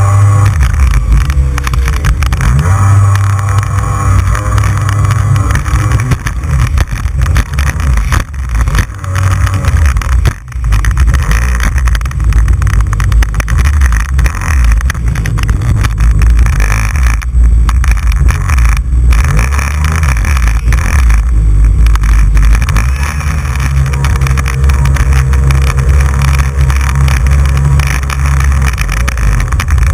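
Personal watercraft (jet ski) engine running loud and steady at speed, with a rushing noise of water and wind over it. The engine's pitch settles into a held tone for a few seconds near the start and again in the last quarter, and there is one brief drop about ten seconds in.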